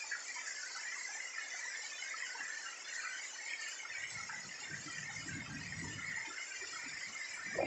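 Heavy rain falling on trees and foliage, a steady hiss with patter. From about four seconds in, a low rumble joins it, and a short knock comes right at the end.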